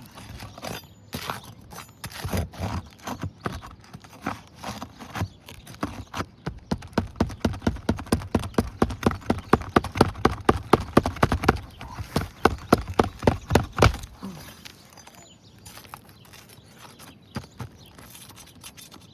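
A hand tool worked under asphalt roof shingles to loosen them: scattered knocks and scrapes, then a steady run of quick knocks about four a second from about six seconds in, stopping about fourteen seconds in.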